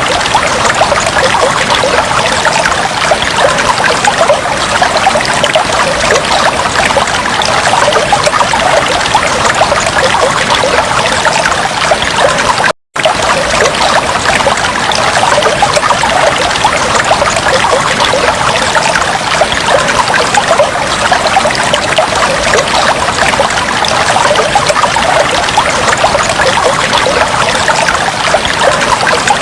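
Aquarium water bubbling and trickling steadily, a dense patter of small bubbles and splashes. It cuts out completely for a split second about thirteen seconds in.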